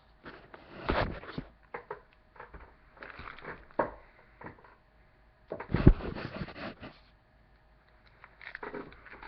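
Handling and eating a Reese's Crispy Crunchy candy bar: bites and crunchy chewing, with some tearing and crinkling of the wrapper. The sounds come in irregular bursts with pauses between them, the loudest about six seconds in.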